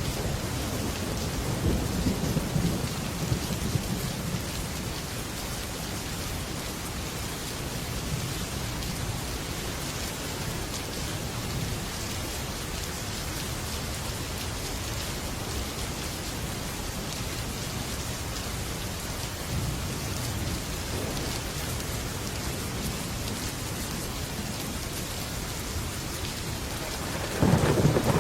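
Heavy rain falling steadily on a metal roof, with thunder: a low rumble swells in the first few seconds, and a louder thunderclap rumbles in near the end.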